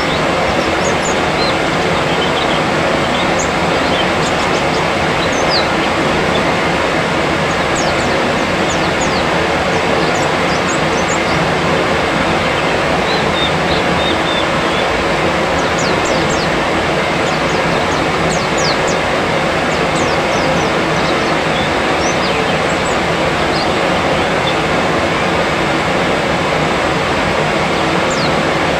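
Loud, steady rushing noise throughout, with many short, quick high-pitched chirps of small birds scattered over it.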